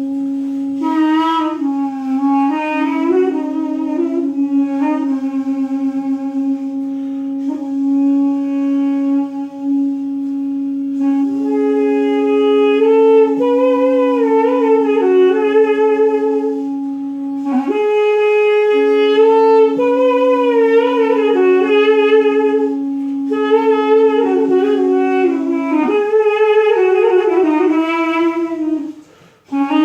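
Live duduk and balaban, double-reed Caucasian wind instruments: one holds a steady low drone while the other plays a slow, ornamented melody with bending notes. The drone breaks briefly twice, and the music drops away for a moment just before the end before resuming.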